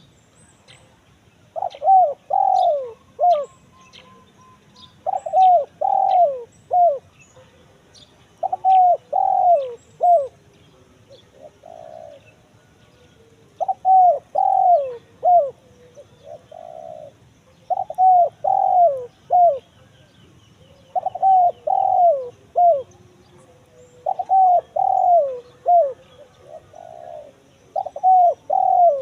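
Spotted dove (tekukur) song, the crisp 'kuk 1' type: a phrase of a few falling coos repeated about every three to four seconds, eight times. Faint chirps of other small birds sound behind it.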